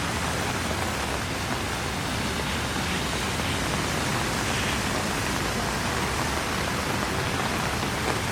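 Steady hiss of heavy rain falling on the street, with the low rumble of city traffic underneath.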